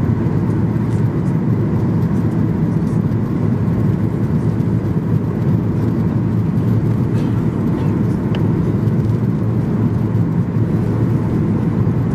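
Steady cabin noise inside a Boeing 737-800 in flight: a deep even rumble of airflow and CFM56-7B engines, with a faint steady whine.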